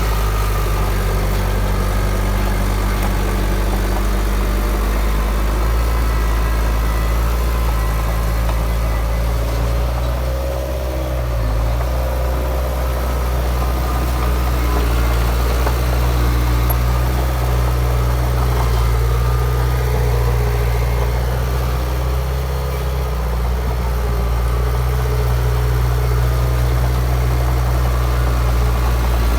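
Heavy diesel engine of earthmoving machinery running steadily at a low, even pitch, with slight dips in loudness about ten seconds in and again a little past twenty seconds.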